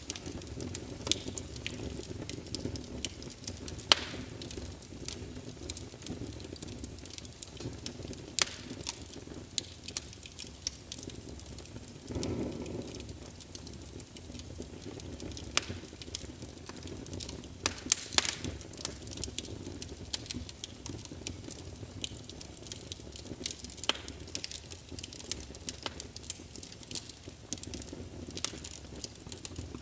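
Wood fire crackling in a fireplace: a steady low rush of flame with irregular sharp pops and snaps, a few louder ones about four seconds in and around eighteen seconds in.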